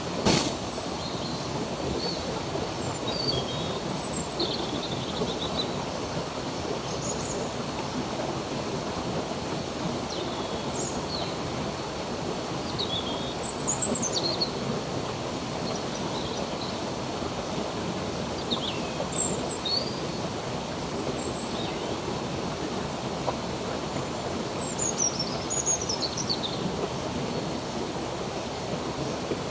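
Stream water running steadily, with small birds giving short chirps and slurred calls every second or two, a quick run of them about 25 seconds in. A brief sharp click just after the start is the loudest moment.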